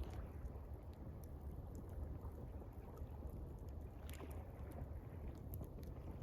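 Water lapping as a steady low wash, with a wood campfire giving faint, scattered crackles.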